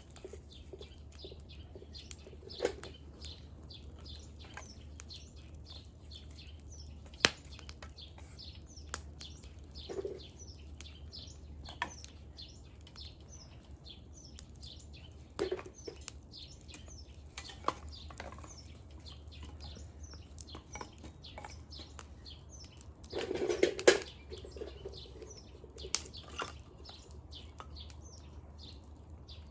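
Split firewood burning in an open wood fire: a steady patter of small crackles with sharp single pops every few seconds, and a louder flurry of crackling about 23 seconds in.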